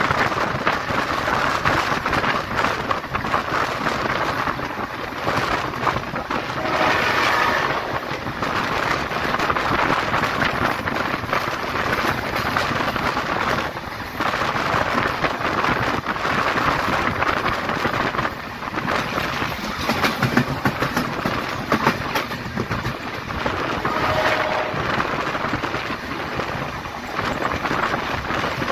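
Passenger train running, heard from a phone held out of a coach window: the steady rumble and clatter of wheels on the rails with wind buffeting the microphone. Two brief squeals stand out, one a few seconds in and one near the end.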